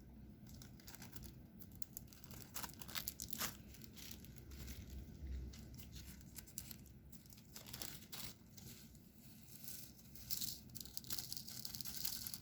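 Diamond-painting materials being handled: scattered small plastic clicks and rattles of resin drills, pen and tray, with a longer crinkling rustle of plastic film about ten seconds in.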